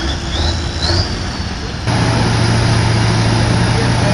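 Heavy vehicle engine running under load. About two seconds in, it cuts abruptly to a louder, steady engine drone with a deep hum.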